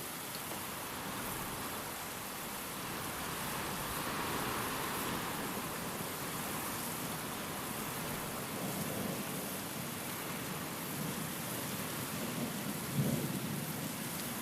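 Steady rain hissing with wind, and thunder: a low rumble about nine seconds in and a louder, sharper clap of thunder near the end.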